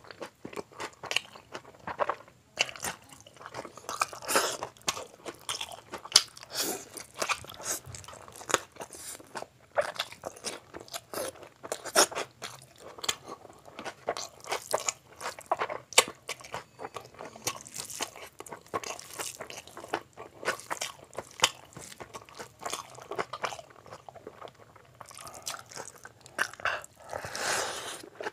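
Close-miked eating of chicken and mutton biryani by hand: wet chewing and mouth smacks in quick irregular succession.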